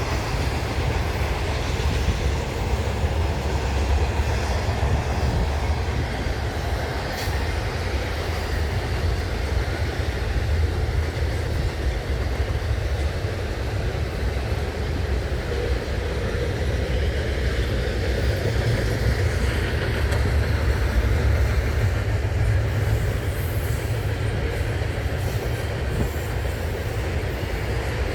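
Intermodal freight train cars rolling steadily past at track side: a continuous, even rumble of steel wheels on rail.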